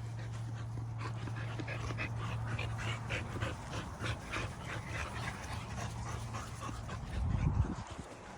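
Young dogs panting in quick repeated breaths, about two to three a second, with a faint whimper, over a steady low hum; a louder low rumble comes near the end.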